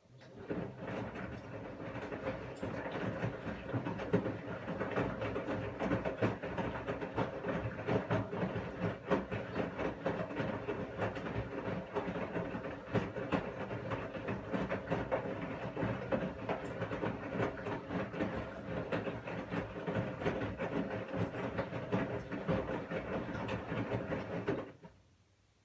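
Washing machine running, its motor humming under dense rattling and clicking from the turning drum. It starts about half a second in and stops abruptly near the end, like one turn-and-pause phase of a wash cycle.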